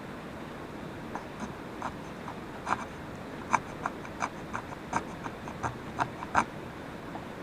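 A run of short, sharp clicks and taps, irregular at roughly two a second, over a steady background hiss.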